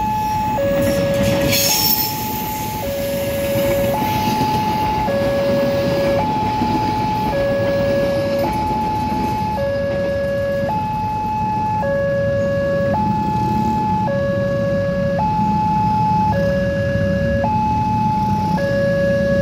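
Level-crossing warning alarm sounding a steady high–low two-tone signal, each tone about a second long, over the low rumble of a passing passenger train, with a brief louder rattle about two seconds in.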